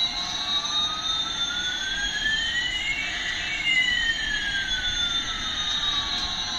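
Electronic jet-engine sound effect from a toy's speaker: a hiss with two tones, one slowly rising while the other slowly falls, crossing about halfway through.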